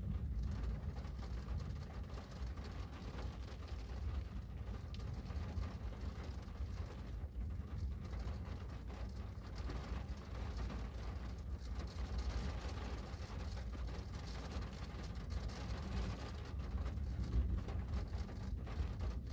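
Steady rain on a window, an even rushing noise with a constant low rumble underneath and many small ticks of drops striking.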